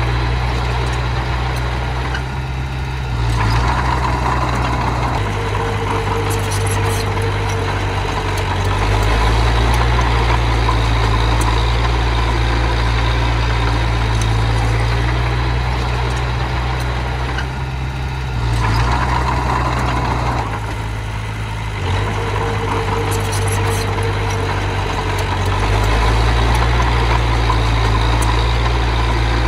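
Engine of a miniature bulldozer working with a small dump truck, running continuously with a strong low rumble. The engine note dips and changes twice, about two and eighteen seconds in, each time followed by a few seconds of higher whine.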